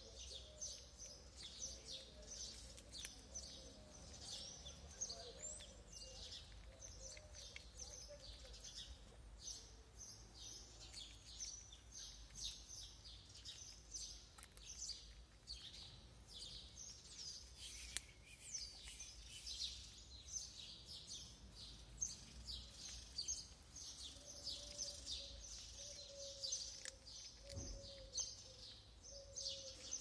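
Small birds chirping rapidly and almost without pause, faint, over a low steady outdoor rumble.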